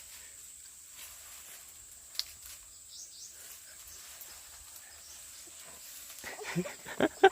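Quiet outdoor ambience with a steady high-pitched insect drone and a single sharp click about two seconds in; a voice breaks in near the end.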